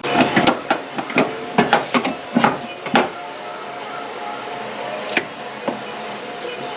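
A quick run of sharp knocks and clatters, about a dozen in the first three seconds and one more a little later, from work on the car's body and interior.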